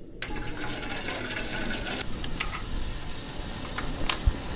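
Gas stove burner lighting and running under a thin aluminium pot of water, a steady rushing hiss that starts suddenly just after the start, with a few light ticks and clinks.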